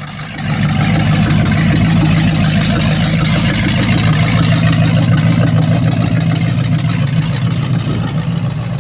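A vehicle engine held at high, steady revs during a burnout, with a loud hiss over it from the spinning tyre.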